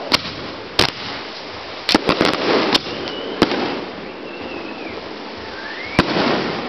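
Aerial fireworks bursting: about eight sharp bangs, several close together around two seconds in and a last one near the end, over a steady hiss. A faint whistle rises just before the last bang.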